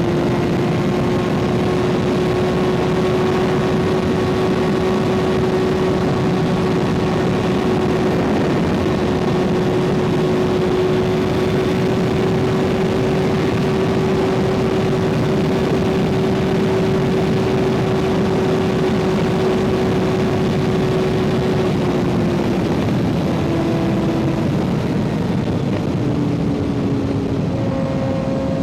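Kawasaki ZX-6R inline-four through an aftermarket M4 exhaust, running at a steady, slowly climbing engine speed under wind and road noise. Near the end the engine note drops in two steps.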